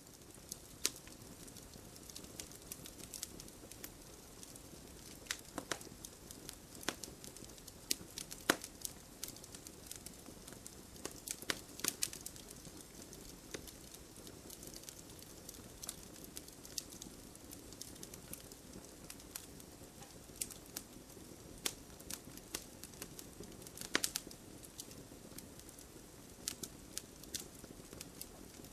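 Campfire burning: a steady soft rustle of flames with irregular sharp crackles and pops from the burning wood, a few of them markedly louder.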